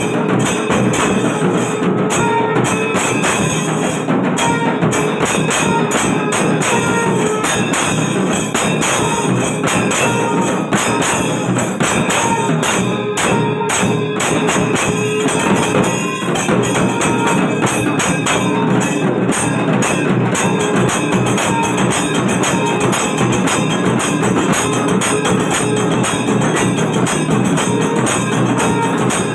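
Kailaya melam temple percussion ensemble playing: drums and hand cymbals in a steady, dense rhythm, with short held pitched notes over it.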